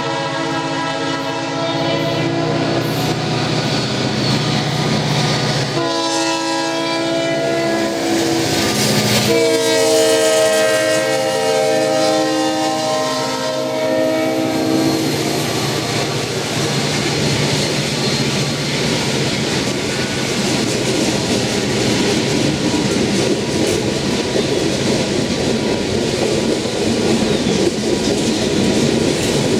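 Freight locomotive horn sounding three blasts at a grade crossing, the last one longest and ending about halfway through. The train then rumbles past, its wheels clicking over the rail joints.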